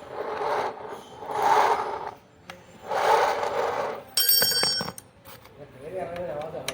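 Hand tools scraping and rubbing on metal in about three one-second strokes, then a brief metallic ring about four seconds in.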